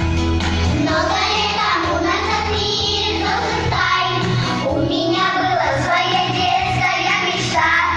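Song with a child singing over an instrumental backing, the voice coming in about a second in after a guitar-like intro.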